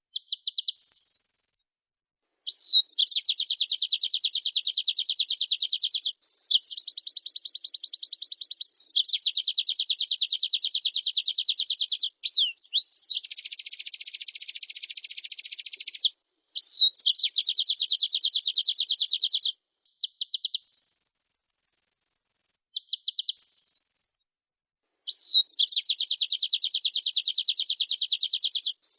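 White-eye (pleci) singing long, fast trilled phrases of rapid high notes, each lasting a few seconds, separated by short pauses. Shorter, very high shrill bursts come in between, twice near the start and again past the middle.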